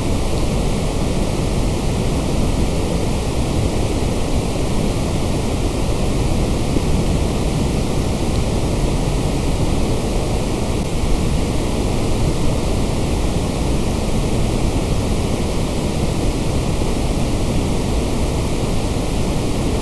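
Steady synthetic white noise: an even, unchanging hiss with a deeper rumble underneath, with no rise, fall or break.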